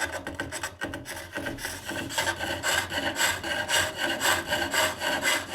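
Hook tool taking a pivot cut into wood spinning on a foot-powered pole lathe: a rhythmic shaving and scraping that starts suddenly and pulses about twice a second, one cut with each treadle stroke.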